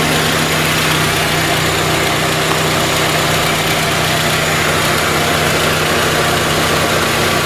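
VAZ-21099's 1.5-litre engine idling steadily at operating temperature, about 95 degrees, with the electric radiator cooling fan running, just switched on.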